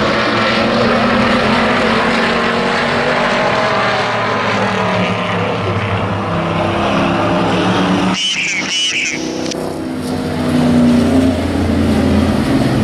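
Hobby stock race truck engines running together at racing speed around the track. About eight seconds in come two short high-pitched sounds. Soon after, one engine grows louder as it passes close.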